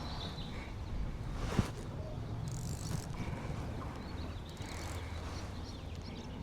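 Wind rumbling on the microphone and choppy water against a small boat's hull, with a single sharp knock about a second and a half in.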